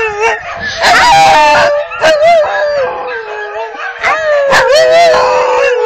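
Siberian husky howling: a run of long, wavering howls broken by shorter notes, the last howl held for nearly two seconds and sliding slightly down in pitch.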